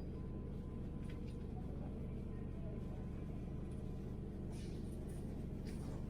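Steady low rumble of a passenger train running, heard inside the carriage, with a few short rattles.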